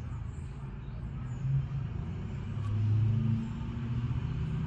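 Low, steady rumble of a motor vehicle's engine running, its pitch rising and dipping slightly.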